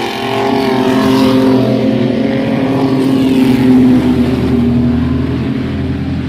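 Mini truck race engines at racing speed as the trucks pass, growing louder to a peak about four seconds in and then easing off.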